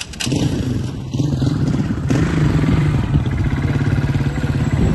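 Small motorcycle engine idling close by with a steady, rapid pulse, getting louder about two seconds in.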